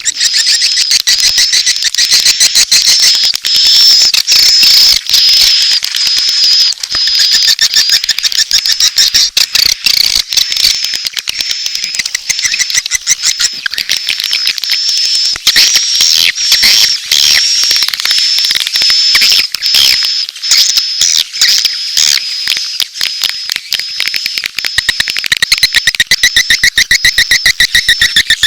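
Recorded swiftlet calls: a dense, continuous stream of high, rapid chirps and clicks, mating calls mixed with chick calls. It is a looped lure track of the kind played in a swiftlet house to attract edible-nest swiftlets.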